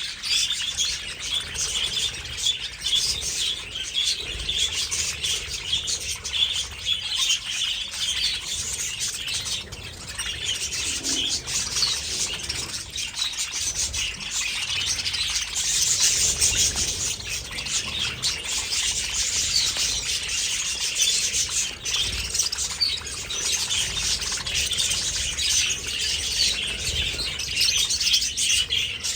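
A flock of budgerigars chattering and chirping without a break, many birds calling over one another.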